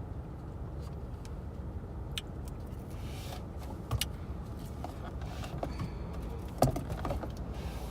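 Steady low rumble inside a car's cabin, with a few scattered soft clicks and one sharper knock near the end.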